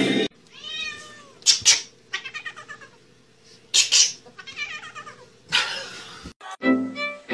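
A cat meowing and yowling over and over, drawn-out rising-and-falling calls broken by several short, loud, harsh cries.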